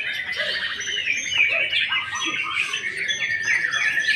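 White-rumped shama singing a rapid, varied run of whistles and chattering notes, over a thin steady high tone.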